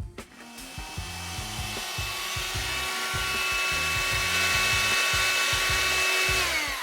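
Parkside PHSSA 20-Li C1 cordless hand-held vacuum cleaner running: a motor whine with a rushing air hiss that builds over the first few seconds, holds steady, then winds down, falling in pitch, near the end.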